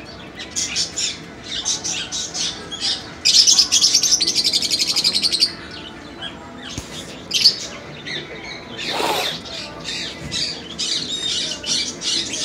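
Small caged birds chirping over and over, with a loud, rapid run of chirps from about three to five and a half seconds in and a single lower, sweeping call near nine seconds.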